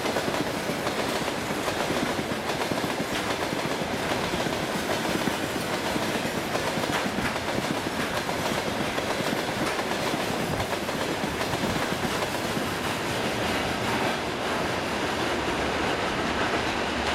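Freight train of tank cars rolling past close by, the wheels clacking over rail joints over a steady rolling rumble. Near the end the last car goes by and the highest sounds begin to fade as the train moves away.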